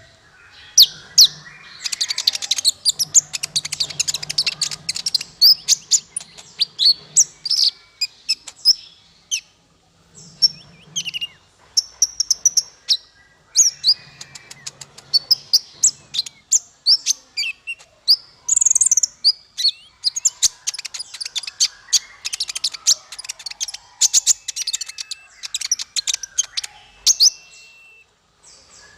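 A small songbird singing a fast, high-pitched stream of chirps, trills and sharp calls in long bursts, broken by a few short pauses.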